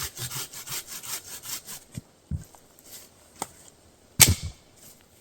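Hand saw cutting firewood in quick even strokes, about four a second, stopping about two seconds in. A few knocks follow, then a loud thump about four seconds in.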